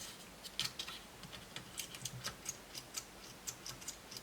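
Light, rapid clicking of a screwdriver working on small laptop screws: a few clicks at first, then about four or five a second.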